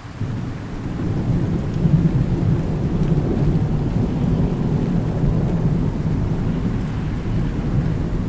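Thunder rumbling low over steady rain; the rumble swells about a second in and holds.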